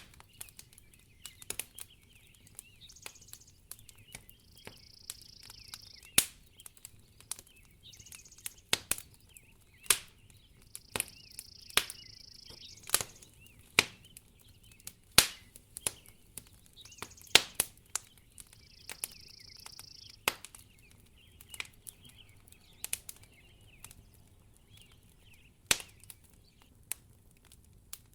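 Wood fire crackling in a fireplace, with sharp irregular pops and snaps every second or so over a low background hiss.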